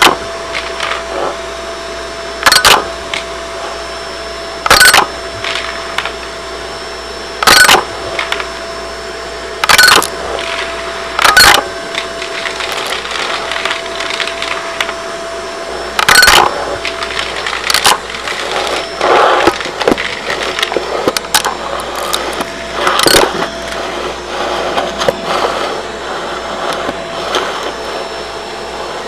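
Shark vacuum cleaner running with a steady hum while pennies are sucked up, each coin giving a loud, sharp clatter every two to three seconds, with smaller rattles in between.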